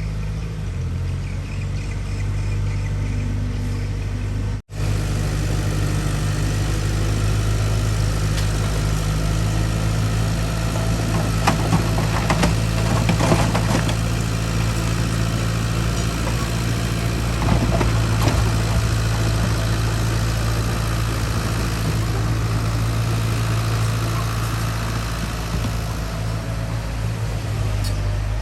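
Heavy diesel engine of earthmoving equipment running steadily, with scattered metallic knocks and clanks about halfway through.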